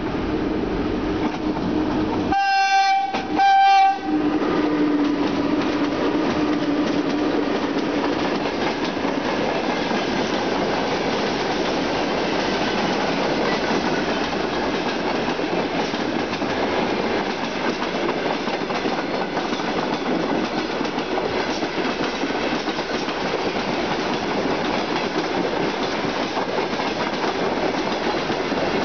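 A VL11 electric freight locomotive sounds its loud typhon horn in two blasts, the first about a second long and the second shorter, a couple of seconds in. Its freight train of boxcars and open gondola wagons then rolls steadily past at close range, wheels clattering over the rail joints.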